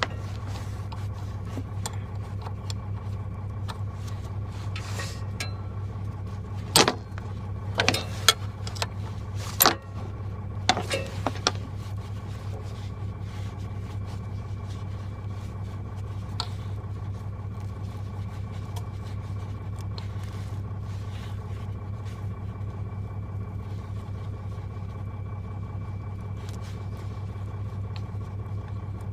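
An engine idling steadily, with a cluster of sharp metallic clanks and knocks between about seven and twelve seconds in.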